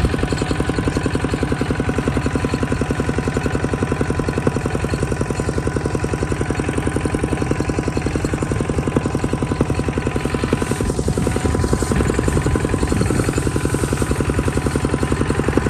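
A vehicle engine running steadily, with an even, fast pulsing throughout.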